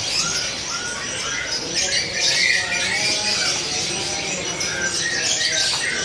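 Many caged birds, canaries among them, chirping and twittering over one another in a dense, steady chorus.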